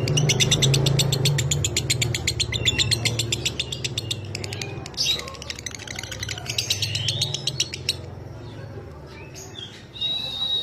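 Lovebird singing its long, very rapid chattering trill (ngekek), in two long runs with a short break about five seconds in. A steady high tone starts just before the end.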